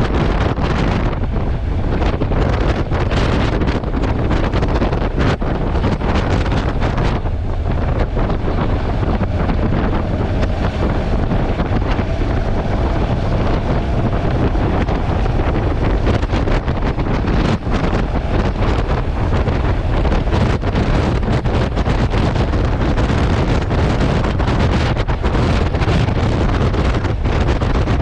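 Heavy wind noise buffeting a GoPro's built-in microphone on a moving motorcycle, a steady low rumbling roar that drowns out the bike's engine.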